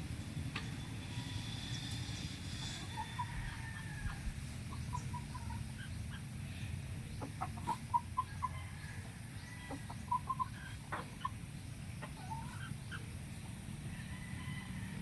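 Chickens clucking in short clusters of quick notes, loudest about eight and ten seconds in, over a steady low background rumble.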